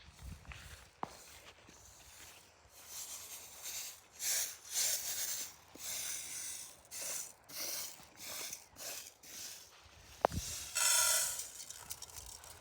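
A series of short rustling, crunching noises, roughly one or two a second, followed by a sharp click and a longer rustle near the end.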